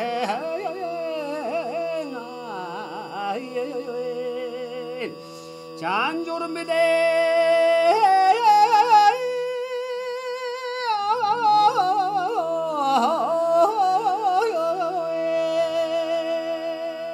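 Mongolian chor dagu, several voices singing in harmony: a steady held low drone under an ornamented melody with wavering vibrato. The drone drops out briefly around ten seconds in.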